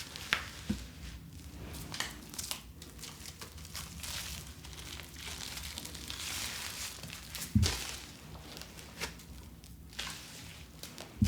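Crinkling and rustling of plastic packaging being handled, with many small clicks and a few soft knocks.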